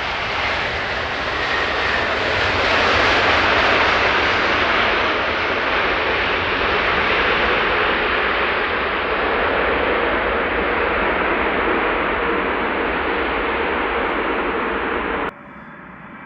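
Jet engines of a large airliner passing low on landing approach. The roar builds to its loudest about three to four seconds in and slowly fades, then cuts off suddenly near the end, leaving a fainter noise.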